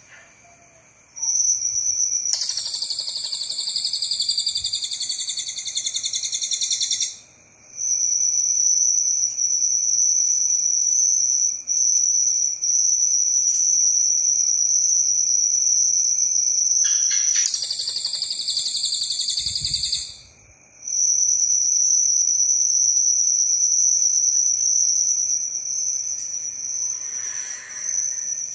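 Cililin songbird singing long, sustained high trills held at one pitch, its 'long shots'. Twice these give way to a few seconds of louder, harsher buzzing chatter.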